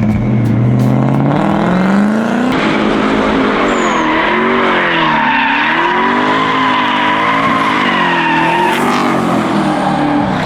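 Turbocharged BMW M62 V8 in an E30 revving up and down hard, with tyres squealing in a drift: a steady high squeal holds for about five seconds in the middle while the revs rise and fall.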